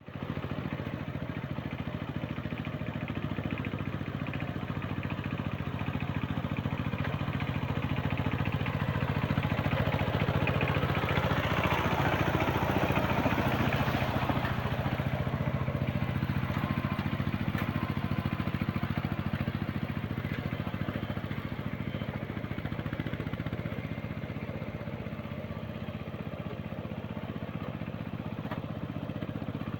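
Walking tractor (power tiller) engine running steadily with a fast, even chugging, growing louder toward the middle and then easing off.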